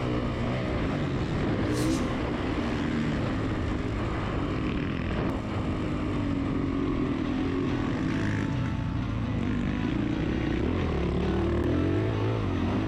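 Motocross dirt bike engine revving on the track, its pitch rising and falling as the throttle opens and closes.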